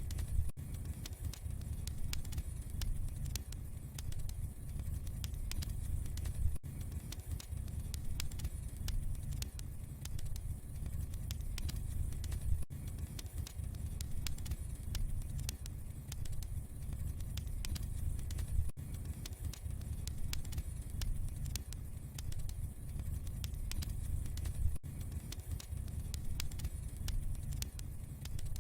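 Wood fire burning in a fireplace, crackling with frequent small pops over a low rumble of the flames. A brief gap recurs about every six seconds.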